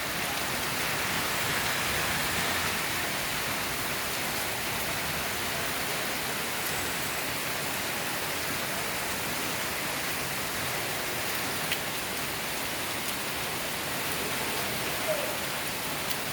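Heavy rain falling steadily: a dense, even hiss of rain striking surfaces.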